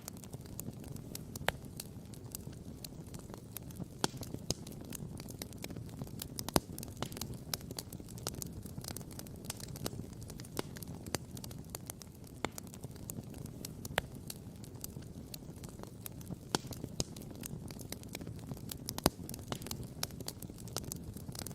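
Wood campfire crackling, with frequent irregular sharp pops over a steady low rush. The loudest pops come about six and a half seconds in and again near the end.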